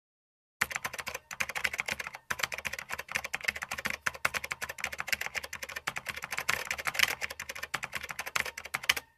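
Keyboard typing, a fast run of key clicks. It starts about half a second in, pauses briefly twice near the start and stops abruptly just before the end.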